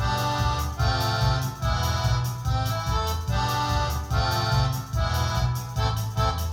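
Electronic keyboard playing a lively tune in an accordion-like voice, over a bass line and a steady beat.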